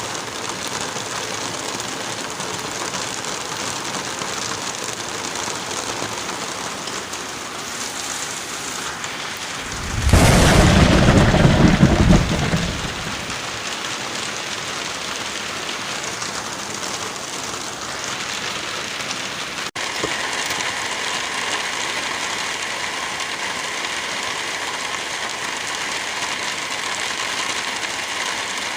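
Steady heavy rain, with a loud rumble of thunder about ten seconds in that lasts a couple of seconds. There is a brief break in the sound about twenty seconds in.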